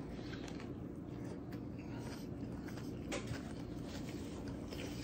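Faint chewing of a mouthful of burger with the mouth closed, small wet mouth clicks scattered throughout, and a brief rustle of a napkin about three seconds in.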